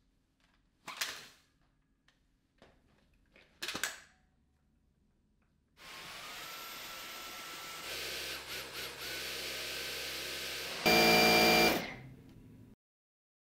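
A Dyson Gen5outsize cordless vacuum cleaner's motor starting up with a short rising whine, running steadily, stepping up in power twice, the second time much louder, then winding down and stopping. Before it starts there are two short clicks or knocks.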